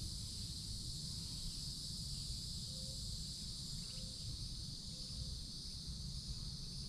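Steady high-pitched insect chorus droning in the forest, with a low rumble underneath. Three faint short low notes sound about a second apart near the middle.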